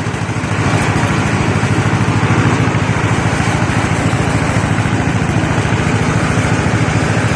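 John Deere M tractor's vertical two-cylinder engine running steadily while the tractor drives along in second gear at a fair speed, with an even, rapid pulsing. It gets a little louder over the first second.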